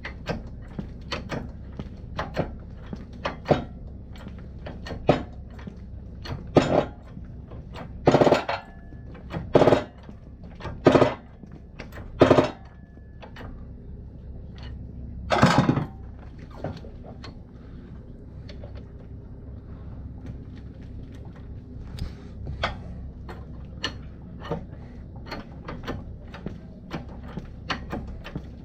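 Metal-on-metal knocking from work on the ATV's wheel: many light clicks and knocks, with five strong blows about a second and a half apart in the middle and one last heavy, longer knock a few seconds later.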